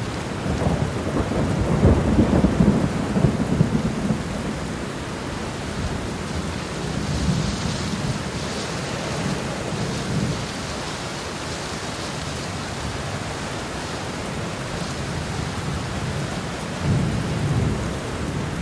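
Steady rain falling during a thunderstorm, with rumbles of thunder swelling about one to four seconds in and again near the end.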